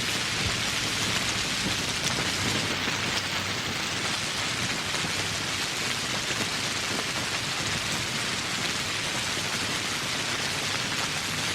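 Steady heavy rain falling on leaves and surfaces, a dense hiss of countless drops with fine pattering ticks.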